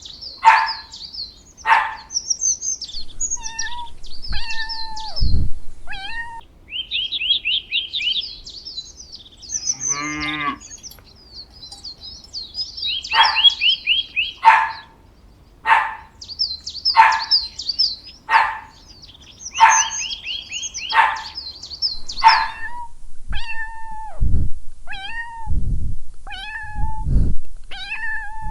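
Cats meowing over and over, short calls spaced about a second apart, mixed with runs of rapid high-pitched chirping.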